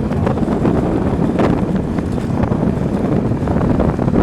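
Wind rumbling on the microphone over steady vehicle noise.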